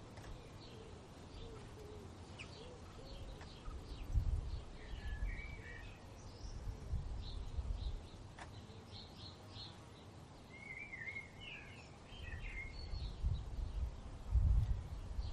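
Several songbirds chirping and singing in short warbled phrases over an uneven low rumble of wind gusting on the microphone, with the strongest gusts about four seconds in and near the end.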